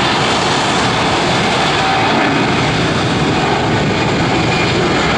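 Airliner engines running loud and steady, a dense rumbling roar as an aircraft moves close by.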